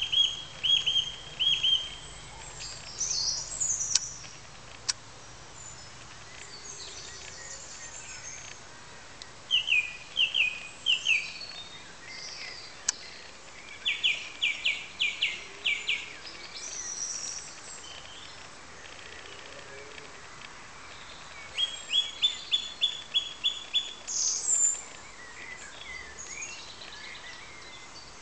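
Songbirds singing: short phrases of quick, high notes, repeated every few seconds over a steady outdoor background hiss.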